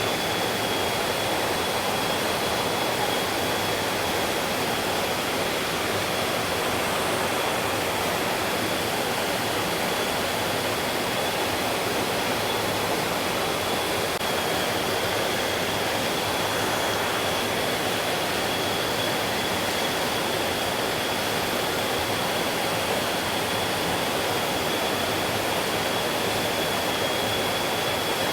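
Stream flowing steadily: a dense, even rush of water, with a thin steady high tone held through it.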